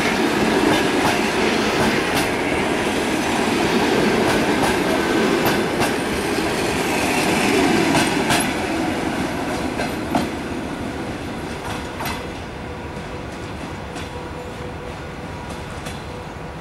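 Passenger coaches of a departing train rolling past, their wheels clicking over the rail joints. The sound dies down from about ten seconds in, once the last coach has gone by.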